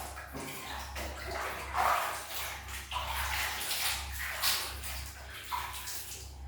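A kitten meowing in short calls while being bathed, with water splashing and running.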